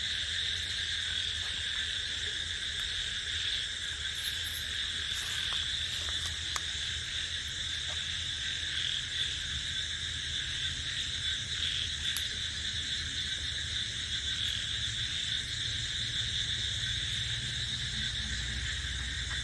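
A steady night chorus of crickets and frogs calling, an unbroken high-pitched trill that holds without pause, with a faint low hum beneath it.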